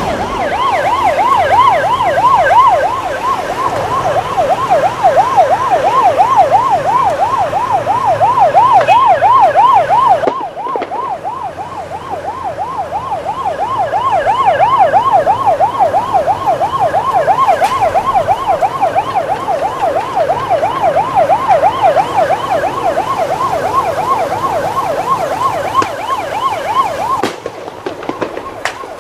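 Emergency vehicle siren wailing in a fast warble, about four rises and falls a second. It breaks off briefly about a third of the way in and stops abruptly near the end.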